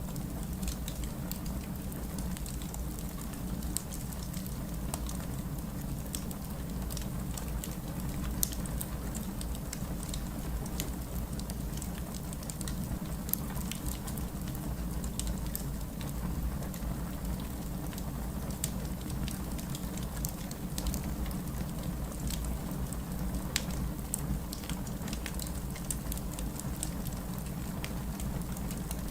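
Steady heavy rain with a fireplace fire crackling, its small sharp pops and snaps scattered irregularly over the even hiss of the rain.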